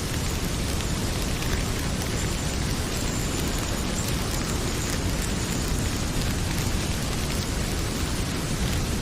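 Heavy rain pouring steadily, with a deep rumbling low end, and a wood fire in a fireplace crackling with occasional faint pops.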